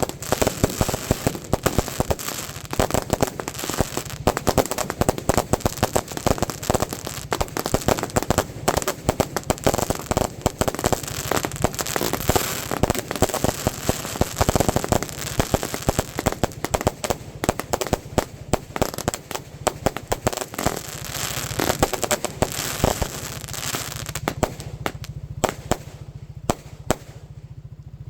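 Fireworks going off in a dense, rapid run of bangs and crackles that thins out and grows quieter near the end.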